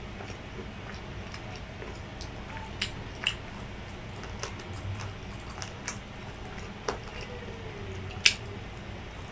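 Close-up eating sounds of grilled street-food skewers: wet chewing and mouth noises with scattered sharp clicks, the loudest about eight seconds in.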